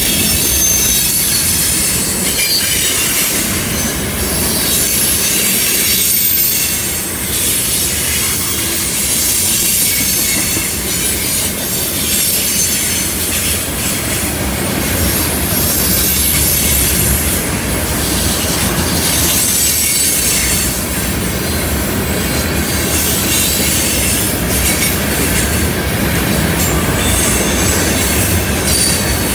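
Freight train of tank cars rolling past on a curve: a steady rumble of steel wheels on the rails with high-pitched flange squeal from the wheels going through the curve.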